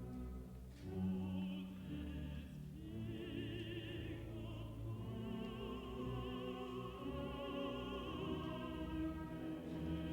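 A contralto voice singing sustained, vibrato-laden notes over a full symphony orchestra, the voice entering about a second in.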